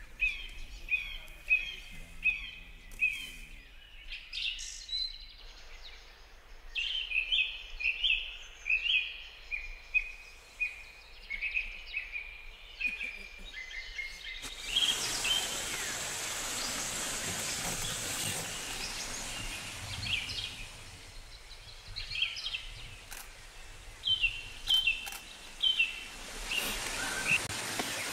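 Birds chirping in runs of short, repeated notes, about two a second, through the first half and again near the end. About halfway through, a steady rushing hiss of running water comes in and carries on under the calls.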